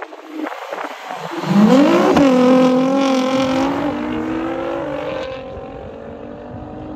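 Car engine accelerating hard: the note climbs quickly about a second and a half in, holds loud and steady for a couple of seconds, then eases to a quieter, steady run.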